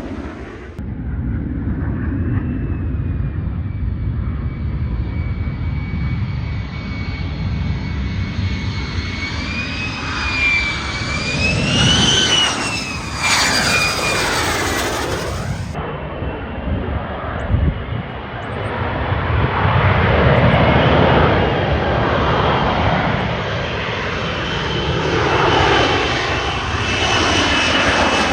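F-35 Lightning II fighter jet's engine running loud on a flyby or approach: a deep rumble with a high whine that wavers and swells as the jet passes, and a fresh stretch of jet sound starts abruptly about a second in and again about halfway through.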